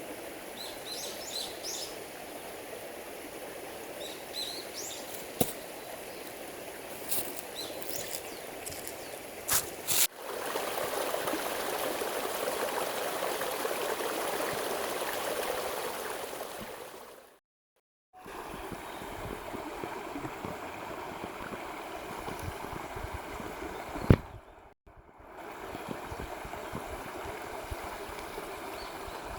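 Flowing stream with small birds chirping during the first few seconds. There are a few sharp clicks and knocks, a louder stretch of rushing water in the middle, and the sound cuts out briefly twice.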